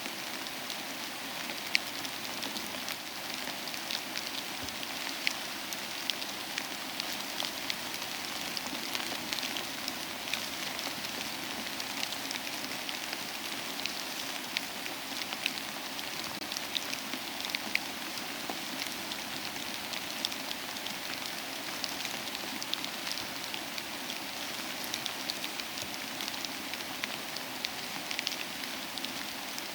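Steady rain together with a crackling wood fire: an even hiss dotted with frequent small sharp ticks and the odd louder pop.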